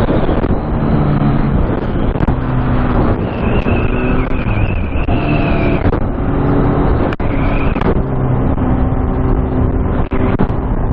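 Motor vehicle engine running under way, its pitch shifting up and down, under a loud, steady noisy rush.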